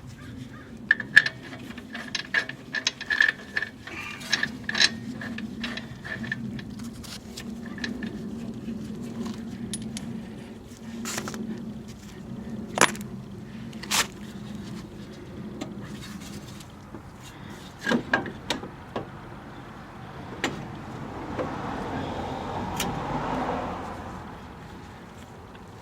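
Metal hand tools clinking and clicking against the strut's bolts and hardware: a quick run of sharp metallic clicks at first, then a few louder single clanks, and a longer scraping noise near the end.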